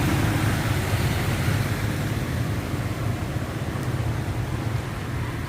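A steady low motor hum under a wash of noise, getting slightly quieter toward the end.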